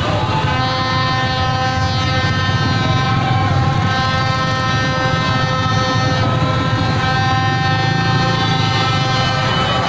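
A street crowd celebrating with horns: several held horn tones blare steadily without a break, over the low rumble of motorbike and vehicle engines.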